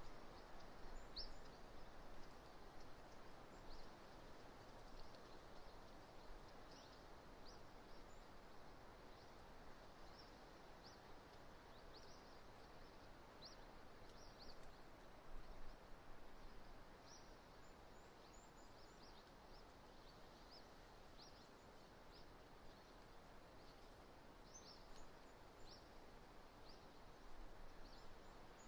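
Faint, steady wind noise on an outdoor microphone, with many short, high chirps of small birds scattered throughout.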